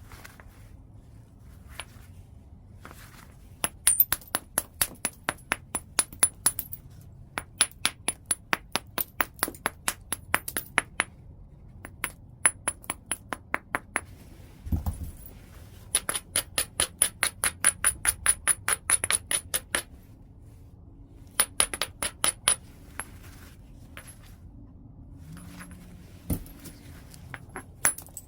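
Stone on white chert during flintknapping: runs of quick, sharp taps, about four to five a second, broken by short pauses. One duller, deeper knock comes about halfway through.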